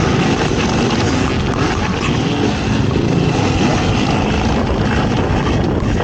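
Race ATV engine running hard and continuously, its pitch wavering up and down as the throttle changes, under a dense rushing noise.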